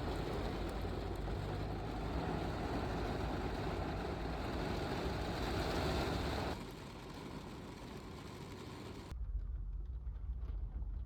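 Storm rain and wind heard from inside a car, a steady hiss that drops in level about six and a half seconds in and changes abruptly to a duller, rumbling sound about nine seconds in.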